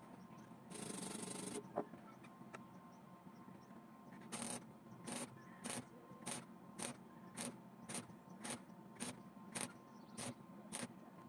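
Hand strokes scraping over metal, a short one about a second in and then a steady run of strokes, a little under two a second, from about four seconds on.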